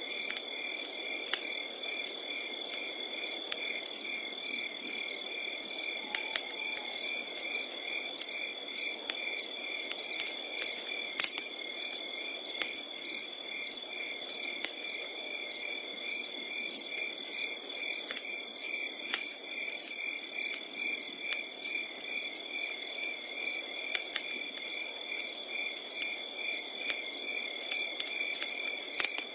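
Crickets chirping at night: a steady high trill with rhythmic pulsed chirps over it, and the sharp pops and crackles of a wood campfire scattered throughout. A brief higher hiss rises a little past the middle.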